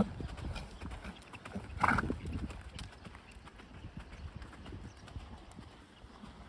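A horse's hooves striking the ground in quick succession as it moves, with one brief louder sound about two seconds in.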